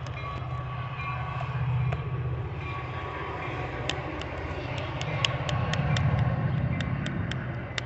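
Train passing: a steady low rumble, with a run of sharp wheel clacks over rail joints starting about four seconds in, about four a second.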